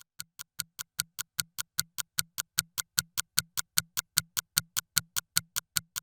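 A fast ticking sound effect like a sped-up clock, about five sharp ticks a second alternating stronger and weaker, running steadily.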